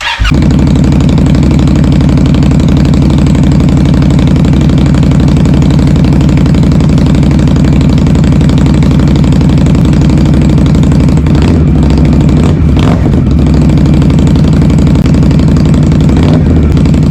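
Indian Scout Bobber's V-twin idling through 3-inch RCX slip-on exhausts, a loud, steady, deep exhaust note, wavering briefly about twelve seconds in.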